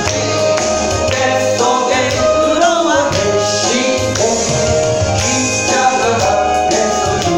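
Church worship music: a praise band accompanying congregational singing, with a tambourine keeping the beat.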